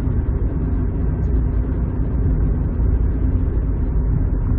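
Steady low rumble of a car on the move, with road and engine noise heard from inside the cabin.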